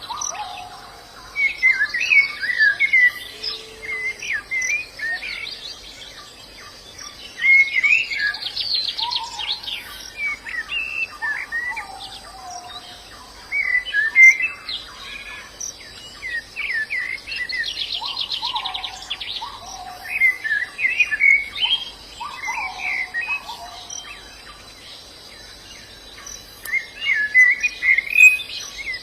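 White-eyes (pleci) chirping and twittering in bursts of quick high notes every few seconds, with a fast buzzy trill now and then. Lower whistled notes sound underneath.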